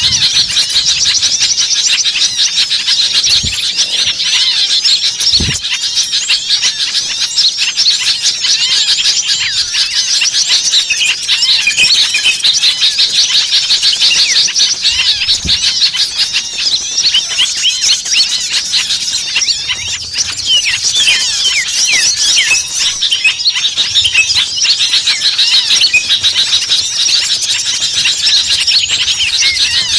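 A dense, loud chorus of many small songbirds chirping and calling rapidly over one another, an agitated flock as used in small-bird lure recordings.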